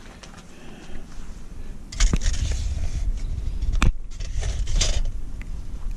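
Footsteps crunching through deep fresh snow, starting about two seconds in, with a sharp knock partway through from the camera and flashlight being handled.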